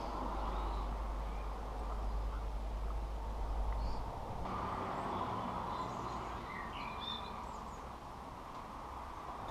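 A few faint bird chirps from small garden birds, mostly in the second half, over a steady outdoor rumble. A deep low rumble drops away about four seconds in.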